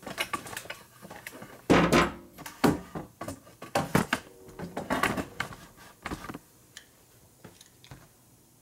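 Tools and parts being handled on a shop bench: a run of sharp knocks and clatters for about six seconds, then a few light ticks.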